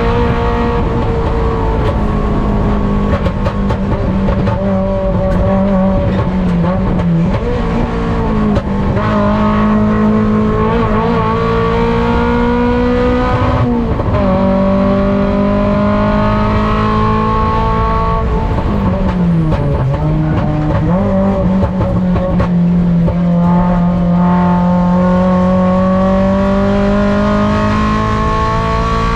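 Mazda Miata race car's four-cylinder engine at high revs, heard on board. Its pitch climbs in long pulls and drops sharply three times under braking and downshifts.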